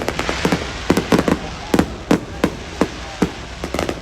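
Fireworks going off in quick, irregular succession: more than a dozen sharp bangs and cracks, some overlapping.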